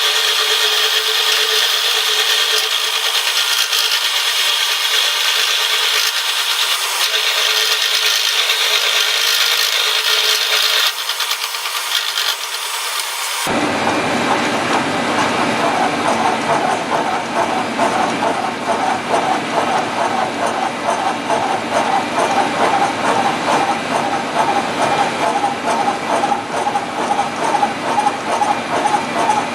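Milling machine cutting steel weld on a vise, a steady grinding cutting noise. About 13 seconds in the sound changes abruptly to a fuller, rapidly pulsing cut.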